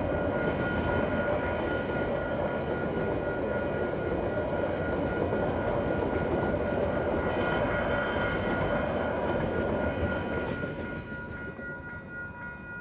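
Container freight wagons rolling over the level crossing, the train noise falling away as the last wagon passes about ten seconds in. The crossing's warning bells ring steadily throughout and carry on after the train has gone.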